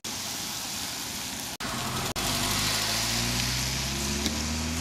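Car engine running and pulling away, its pitch rising slowly through the second half, over a steady hiss. The sound breaks off twice for an instant in the first half.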